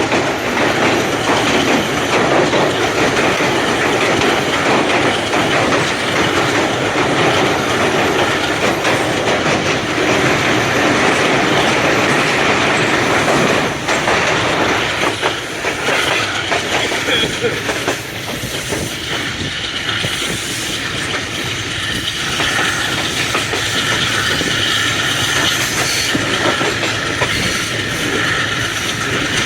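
Passenger train behind an AGE30 'Blue Tiger' diesel-electric locomotive running at speed: a loud, steady rush of rolling noise with wheels clacking over the rail joints. The noise eases somewhat about halfway through.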